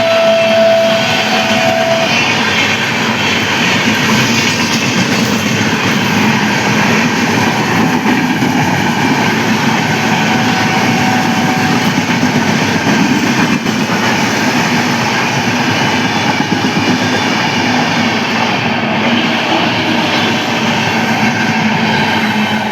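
A train running past close by, a steady loud rush of wheel and rail noise. A shrill single-tone horn, the WAP-7 electric locomotive's, sounds until about two seconds in, and a fainter horn tone follows for a few seconds around the middle.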